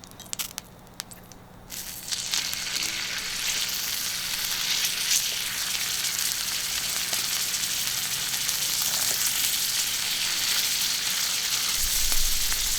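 Skirt steak sizzling on a thick iron griddle over charcoal: a few light clicks, then about two seconds in a loud, steady sizzle starts suddenly and keeps going.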